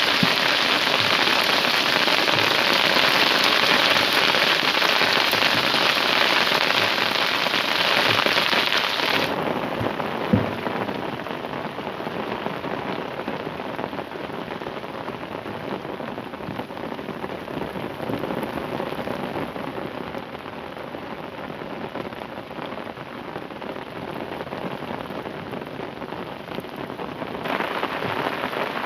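Rain falling steadily, a dense hiss. It drops suddenly to a quieter level about nine seconds in and comes back up near the end.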